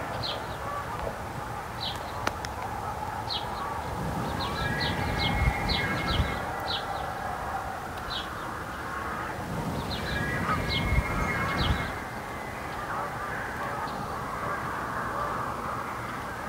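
Wild birds calling: a scattered run of short, high chirps, sometimes several in quick succession, over low rumbles that come and go twice.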